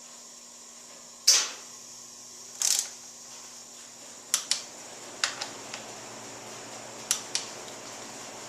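Sharp clicks and knocks, about eight of them scattered and some in quick pairs, from tools and parts being handled on a motorcycle front end, over a faint steady hum.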